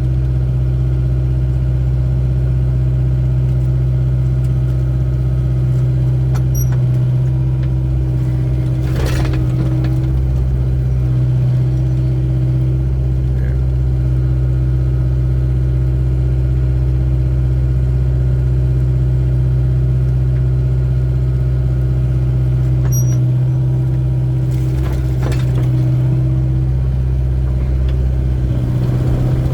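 Excavator diesel engine running steadily during digging work. Two short bursts of noise come about nine seconds in and again about twenty-five seconds in.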